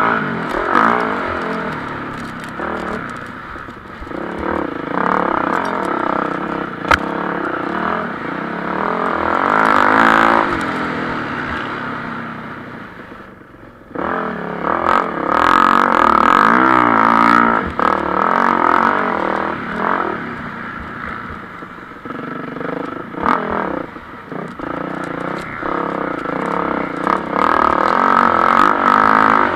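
Motocross bikes racing on the track, engines revving hard and dropping off as they pass, several times over. The loudest passes come about a third of the way in, around the middle, and near the end.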